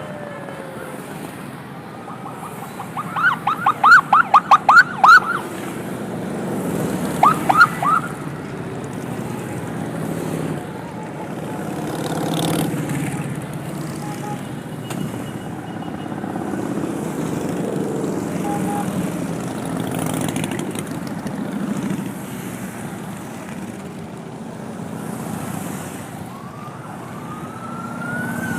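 Emergency vehicle siren giving two short bursts of rapid yelps, about four a second, then a rising wail near the end, over the steady rumble of running vehicle engines.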